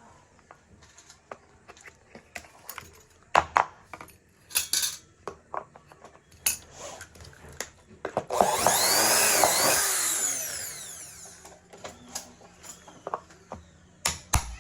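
Scattered knocks and clicks of parts being handled, then, about eight seconds in, a power tool runs for about two seconds, its pitch rising and falling before it fades out.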